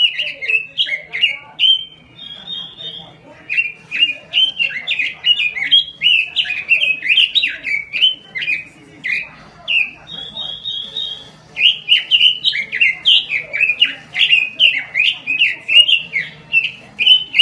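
A chim quế lâm songbird singing loud, rapid runs of sliding whistled notes. Twice the song breaks for a moment with a short buzzy rasp before it resumes.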